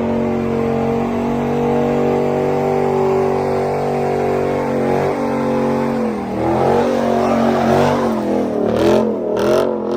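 Car engine held at steady high revs for about six seconds, then revving up and down repeatedly.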